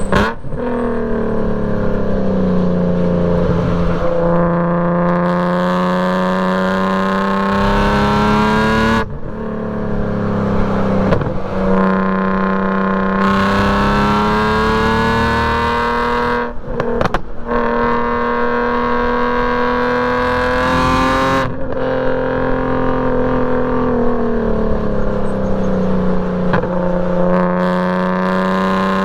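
BMW E46 M3's straight-piped straight-six engine under hard driving on a race track. Its pitch rises and falls slowly with the throttle, and several brief breaks interrupt it as the gears are changed.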